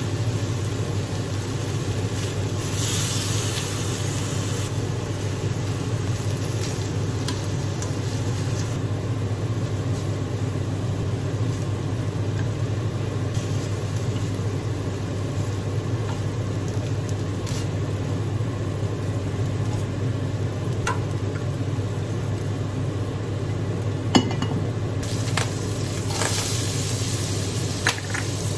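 Chicken breast pieces searing in hot oil in a wok, sizzling steadily, with metal tongs turning them and clicking against the pan a few times near the end. The sizzle flares louder twice, early on and again near the end, over a steady low hum.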